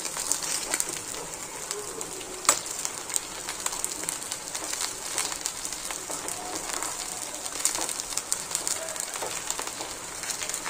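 Sabudana vadas shallow-frying in oil in a kadhai: a steady sizzle full of small crackles. A single sharp clink of the slotted spatula against the pan comes about two and a half seconds in.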